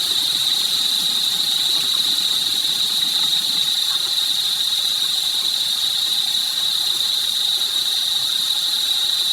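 Running water making a steady, even hiss, unchanging throughout.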